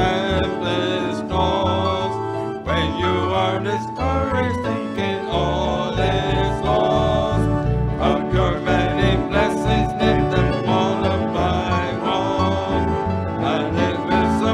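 Instrumental hymn music from a church band, with sustained chords over a bass line that moves in a steady beat.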